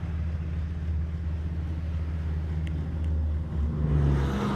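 Car engine running steadily with a low hum. About three and a half seconds in it grows louder, with a higher hum and a rising rush of road noise.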